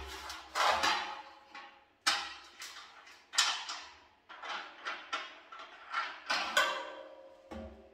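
Irregular metallic clinks and knocks, a dozen or so with short ringing tails, as an engine-valve leg is fitted into the base channel of a metal washing-machine drum.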